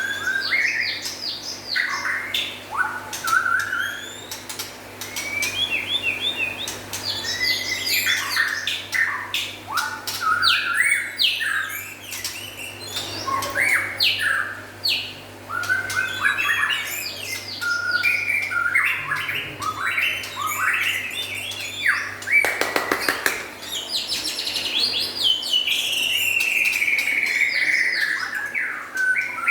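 White-rumped shama (murai batu) singing continuously: a lively run of varied whistled phrases with quick rising and falling notes, ending in a long falling phrase. A brief rattle sounds about 23 seconds in.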